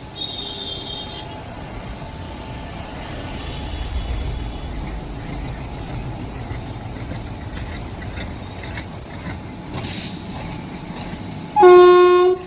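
Steady rumble of a moving train, then near the end a single loud train horn blast of under a second.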